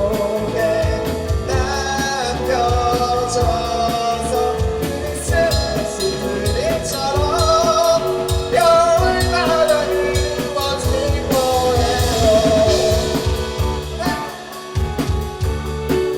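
Rock song with a lead singer's melody over a steady drum beat and sustained guitar or keyboard chords.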